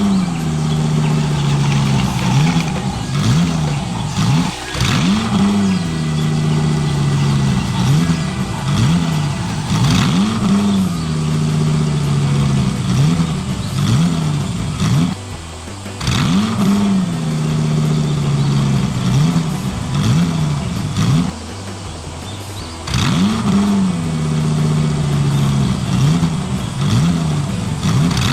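Engine sound revving up and settling, again and again in a repeating pattern, with short drops in level about 15 seconds in and again about 21 seconds in.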